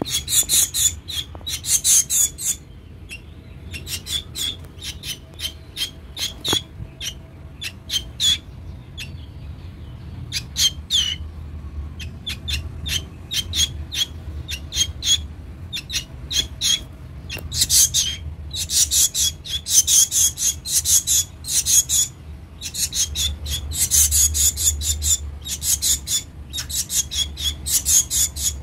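A black bird making a quick, irregular run of short, scratchy, high-pitched sounds, thickest near the start and again in the last third, over a low steady hum.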